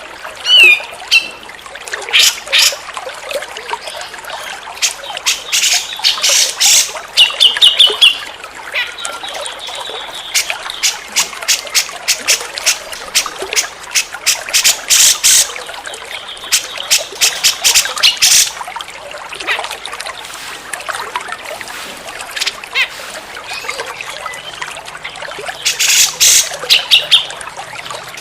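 Cucak jenggot bulbul calling: runs of rapid sharp, chattering notes broken by short whistled phrases, over a steady trickle of running water.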